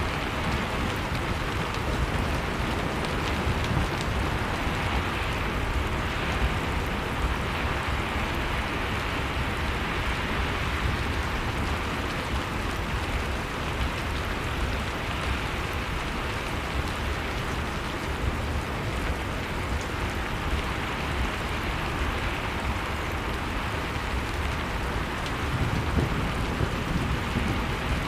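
Blizzard-and-fireplace ambience: steady rushing storm wind with a deep rumble, and a wood fire's faint, scattered crackles on top.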